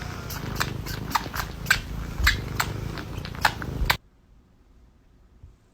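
Cat purring close up: a steady low rumble with sharp clicks over it several times a second. It cuts off abruptly about four seconds in.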